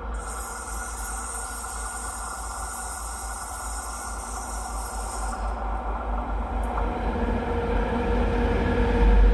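Diesel locomotive V200 507 approaching on the line, its engine running with a steady low rumble that grows louder toward the end. A high hiss sits over the first half.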